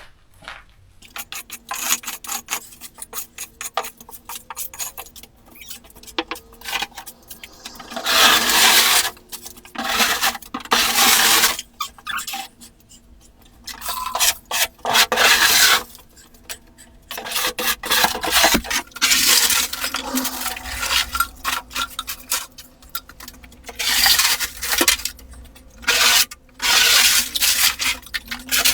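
Rubbish and dirt being scraped and shoved across a floor while a room is cleared out: repeated rasping, rubbing strokes, some short and some a second or two long and loud.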